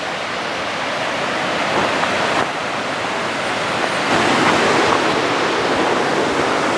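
A waterfall on a mountain creek rushing steadily, loud and close.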